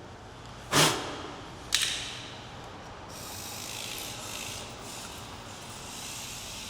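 Two sharp knocks, then the steady high whir of a 1/64-scale mini RC car's tiny electric motor and gear train running.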